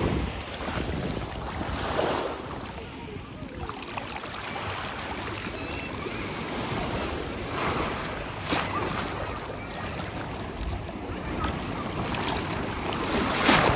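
Sea waves washing onto a beach, swelling and receding, with louder surges about two seconds in, around eight seconds, and the strongest near the end. Wind rumbles on the microphone underneath.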